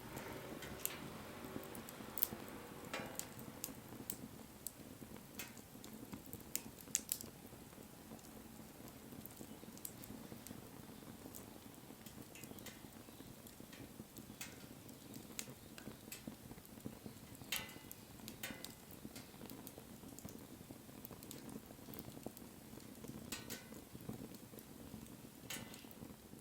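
Wood fire burning: a steady low rush of flames with irregular sharp pops and crackles of burning wood, the loudest snaps about two and seven seconds in.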